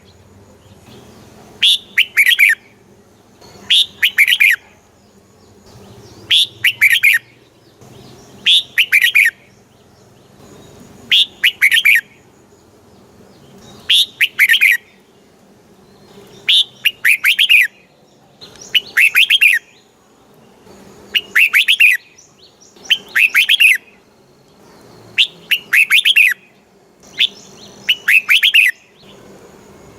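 Red-whiskered bulbul singing: a short, bright phrase of several quick notes, repeated about every two seconds.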